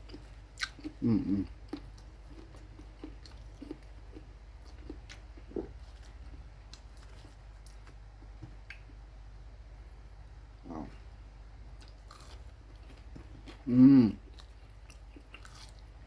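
A person chewing and biting into home-fried chicken, with many small mouth clicks. Three short closed-mouth hums come about a second in, near 11 seconds and near 14 seconds; the last is the loudest.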